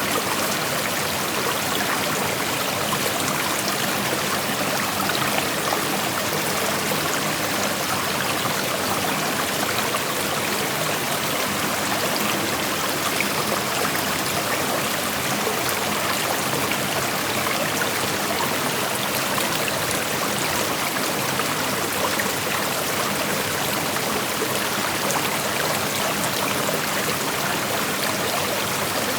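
Creek water flowing over rocks: a steady, even rush with fine trickling and splashing, no other sounds.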